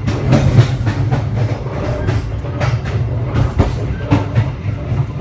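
Passenger train running: a steady low rumble with irregular sharp clacks of the wheels over the rails.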